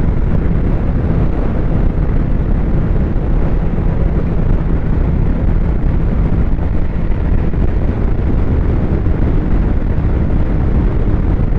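Snowmobile engine running steadily while riding, with heavy wind buffeting on the microphone.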